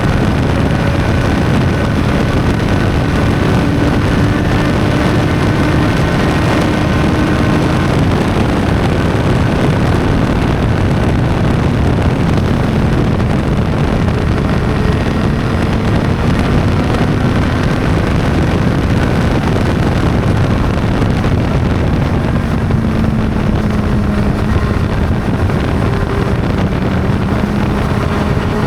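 Honda CB600's inline-four engine running at a steady cruise, its pitch drifting gently up and down, under heavy wind buffeting on the microphone.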